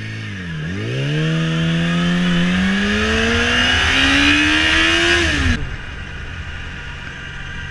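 Motorcycle engine accelerating, its pitch climbing steadily for about five seconds over wind noise, then cut off suddenly; a quieter steady engine hum follows.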